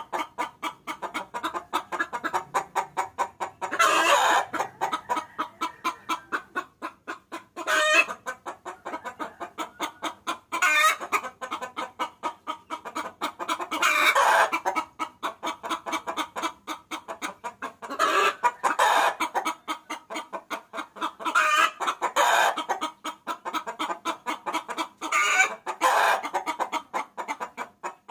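Hen clucking in a rapid, steady run of short clucks, about five a second, broken every few seconds by a louder drawn-out call. This is a hen's lure call of the kind used to draw roosters in.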